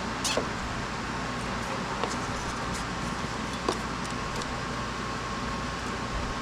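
Nissan Serena C25 engine running steadily at idle, freshly fitted with new spark plugs and ignition coils. A few light clicks sound over it.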